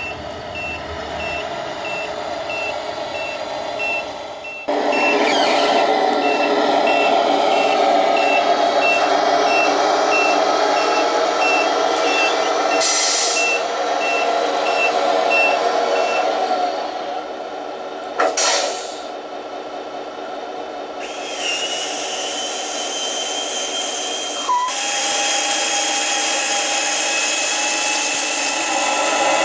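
Radio-controlled Tamiya Scania 770S truck's sound unit playing a running engine with a reversing beeper, which beeps over the first half and then stops. There are short hisses about 13 and 18 seconds in, then a louder steady hiss with a held tone over the last eight seconds.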